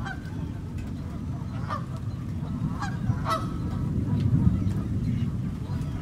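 Steady rain falling on a lake, a dense low rush of noise, with short calls from waterbirds cutting through several times, mostly in the first half.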